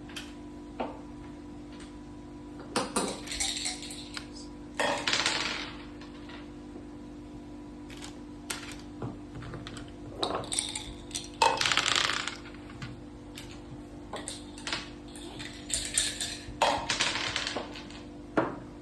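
Dice and pieces of a mak saka (Thai backgammon) game clattering on the board in several short bursts of rattling clicks, the loudest about five seconds in and again around eleven to twelve seconds.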